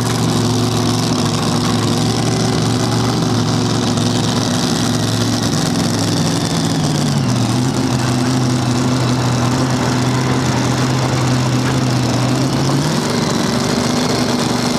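A pulling vehicle's engine running loud and steady. Its pitch drops about seven seconds in, holds low, and picks back up near the end.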